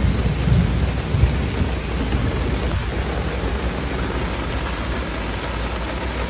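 Heavy rain and rushing floodwater: a steady, loud rushing noise with a low rumble that is strongest in the first second or so.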